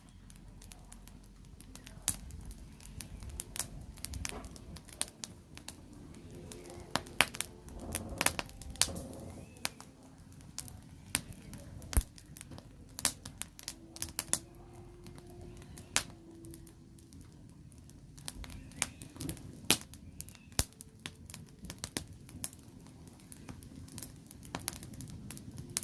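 Burning firewood crackling, with irregular sharp pops and snaps throughout.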